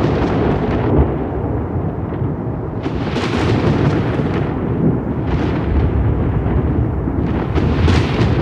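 Thunder rolling in a continuous deep rumble, with crackling peals breaking out about three seconds in, again around five seconds, and near the end.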